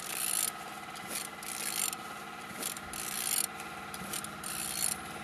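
Ratchet wrench clicking through about seven short strokes as the crankshaft of an Opel Z16XEP 1.6-litre four-cylinder petrol engine is turned over by hand; the engine turns freely and is not seized.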